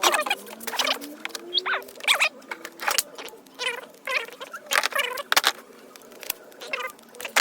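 Metal hand tools clinking and clattering as they are picked up and set down, a dozen or so sharp, ringing clinks at uneven intervals, with a few short squeaky glides in between.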